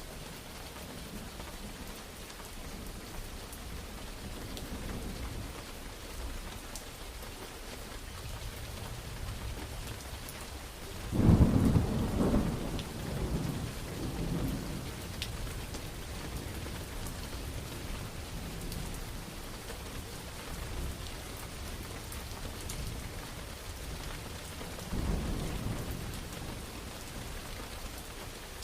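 Steady rain with thunder: a loud thunderclap about eleven seconds in that rolls on for several seconds, and a weaker rumble near the end.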